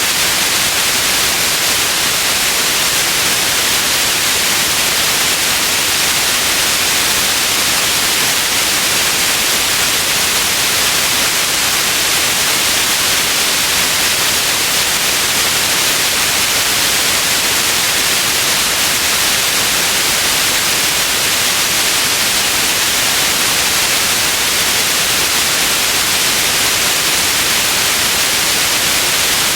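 Continuous white noise: a steady, unchanging hiss, strongest in the upper range, with no breaks or events.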